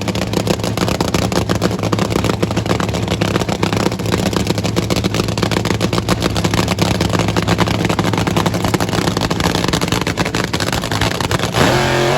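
Drag racing car's big V8 engine idling loud and lumpy with a rapid, choppy pulse, then beginning to rev up near the end.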